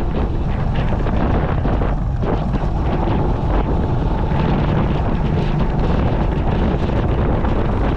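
Steady wind rushing over the microphone of an action camera on a moving motorcycle, with the sound of the ride underneath it.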